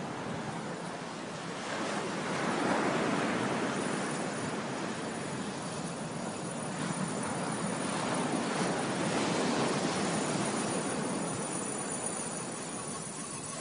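Ocean surf breaking and washing up a beach, swelling louder twice.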